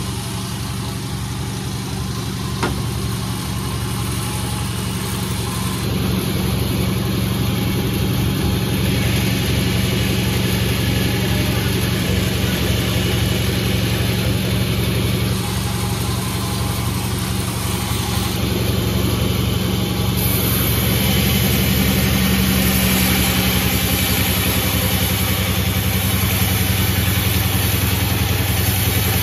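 Panda 36 sawmill running steadily with an even-pitched engine hum while sawing a bayur log. The high hissing noise grows fuller about 9 seconds in and again about 20 seconds in, with one sharp click near 3 seconds.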